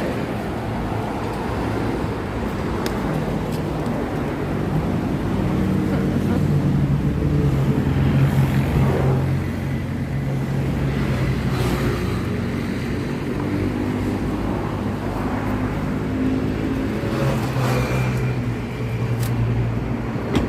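Car engine and road noise: a steady low hum that swells and eases a little, as from a moving car.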